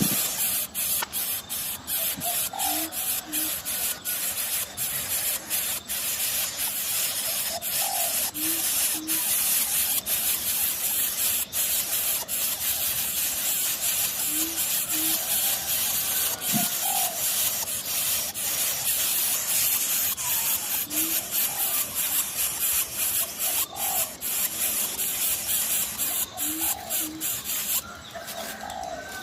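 Steady hiss with scattered crackling clicks. Over it, a coucal gives a short low double hoot with a higher rising note about every six seconds.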